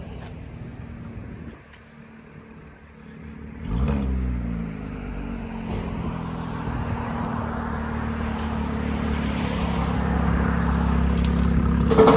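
Chevy Camaro 3.6L V6 with an X-pipe and Borla ATAK axle-back exhaust running at low speed as the car is backed up. The exhaust note jumps up about four seconds in and then grows steadily louder, with a short sharp click near the end.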